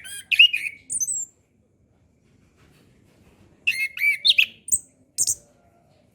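Chestnut-capped thrush (anis kembang) singing: two short phrases of rapid, varied chirps and whistles, the second about three and a half seconds after the first, each ending with a couple of very high notes.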